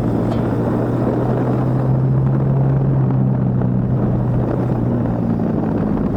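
Motorcycle engine running steadily at cruising speed, with wind and road noise over the microphone; the engine note shifts slightly near the end.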